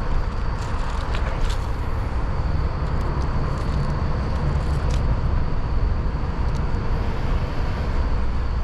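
A steady low outdoor rumble with a rushing hiss, and a few faint clicks and knocks scattered through it.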